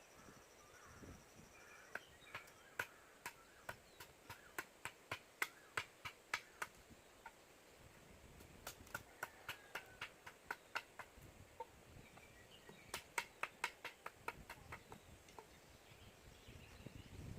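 Sharp taps of a tool striking wood, in three runs of quick, even strokes, two or three a second, with faint bird chirps in the background.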